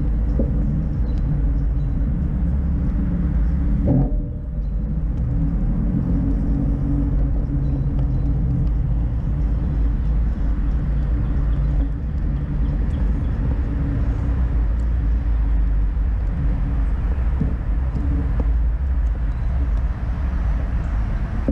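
Steady low rumble of a ride under way: wind buffeting the microphone over a droning hum, with a brief knock about four seconds in.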